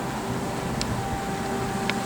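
Steady background rumble with a few faint held tones, and two short high chirps or clicks about a second apart.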